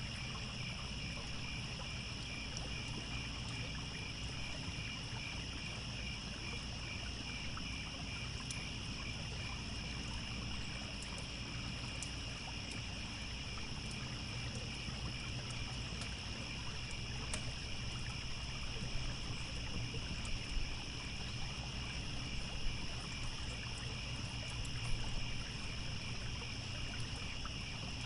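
Crickets chirping steadily in a pulsing chorus over the low wash of a trickling stream, with scattered crackles from a campfire and a few louder pops in the second half.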